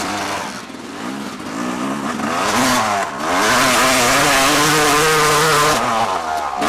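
Off-road vehicle engine being ridden, its pitch rising and falling with the throttle. About three seconds in it holds at its loudest for a couple of seconds under a rush of noise, then drops back.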